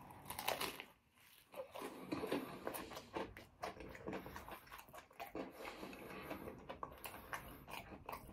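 Potato chips being broken into smaller pieces: a quick, irregular run of small crisp cracks and crunches.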